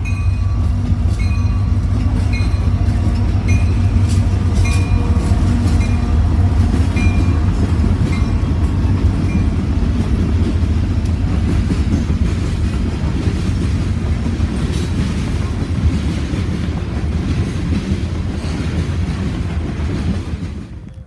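Union Pacific freight train passing close by: the diesel locomotives' deep, steady rumble, then the wheels of covered hopper cars clacking over the rail joints. A grade crossing bell dings about once a second through the first half.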